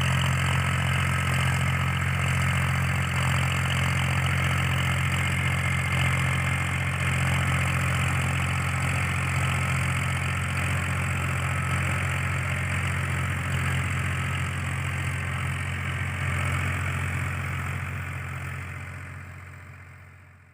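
Powertrac 434 tractor's diesel engine running steadily, fading out near the end.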